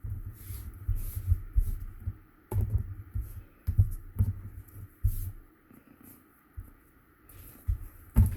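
Irregular dull thumps and light rustle of hands pressing and handling a glued cardstock piece on a tabletop, with a few sharper knocks and a quieter stretch about six to seven seconds in.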